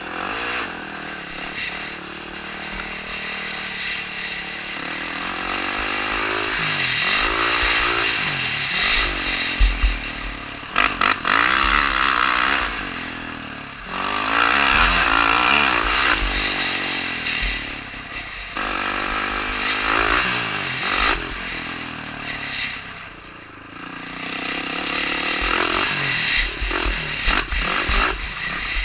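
Dirt bike engine being ridden hard, revving up and dropping back over and over, its pitch rising and falling with throttle and gear changes, with several louder surges.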